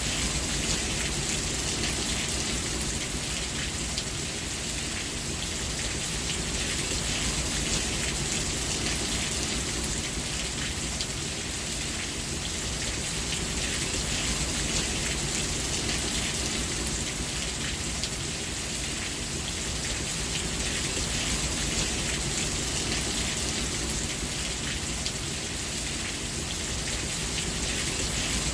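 Steady rain falling, a dense hiss with many small drop ticks and a soft low rumble underneath.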